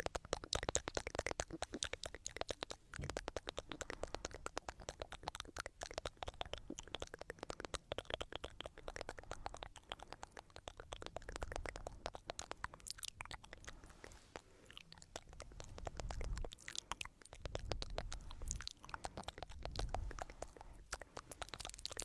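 Stones rubbed and ground together close to the microphone: a dense, continuous crunching of fine clicks and scratches, with heavier, deeper grinding passages in the second half.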